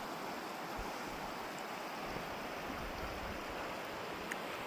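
Steady rushing of a creek's flowing water, an even hiss with no breaks.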